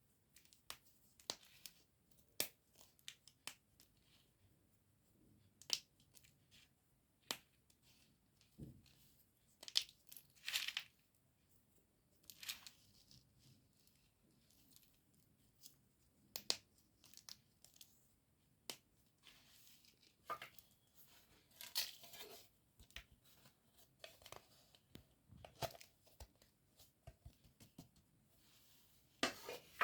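Brittle chalky slate pieces being crumbled and snapped: irregular sharp cracks and short crackling crunches, with denser bursts of crackling about a third of the way in, around two thirds of the way, and a loud crunch at the end.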